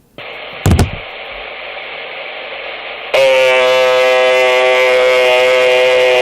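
Radio receiver hiss, then a sharp click a little under a second in. About three seconds in, a loud, steady, buzzy tone of fixed pitch comes over the radio and holds, sounding like a horn.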